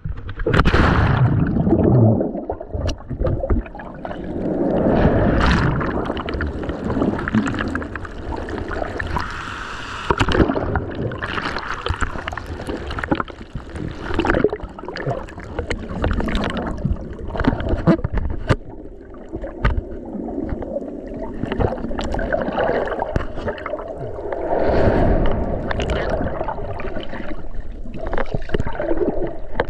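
Muffled churning and gurgling of surf heard from a camera held underwater in waist-deep waves, swelling and easing every few seconds, with frequent sharp clicks and knocks.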